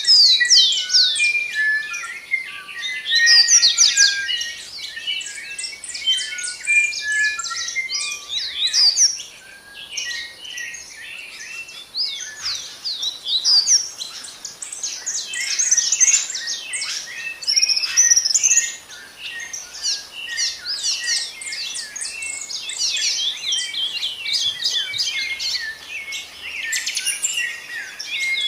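A dense chorus of many birds chirping and singing at once, with quick, high, overlapping notes that never pause.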